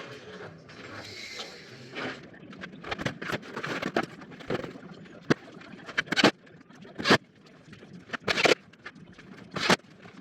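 Knocks and clatter of building work, with several sharp bangs in the second half.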